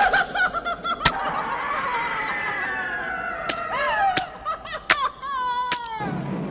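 Horror sound effect: a drawn-out, wavering cry that slides slowly down in pitch, with several sharp cracks through it. Near the end a low rumble comes in.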